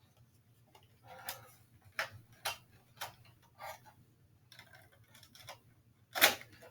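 A row of sharp clicks and knocks, about half a second apart, then a single louder knock near the end.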